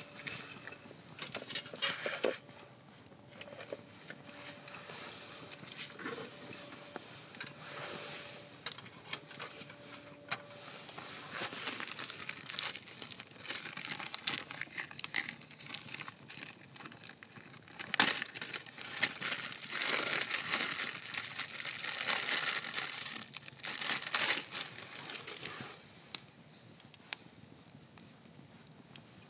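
Crinkling and rustling handling sounds with scattered clicks and taps, busiest about two-thirds of the way through.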